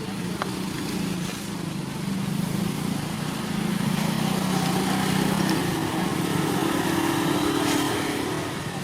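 A small engine running steadily, its pitch stepping up about halfway through and dropping away near the end.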